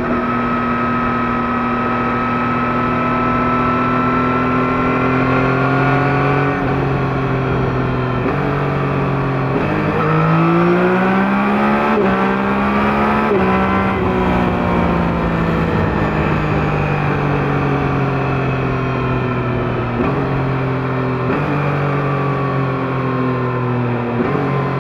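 2021 Yamaha MT-09's 890 cc CP3 inline three-cylinder engine through its stock exhaust, running under way. The pitch jumps suddenly several times, climbs about ten seconds in as the bike accelerates, then falls steadily for several seconds as it slows.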